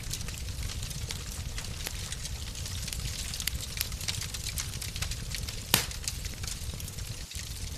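Fireplace wood fire crackling, with many small snaps over a steady low rumble and one sharp louder pop a little before the end.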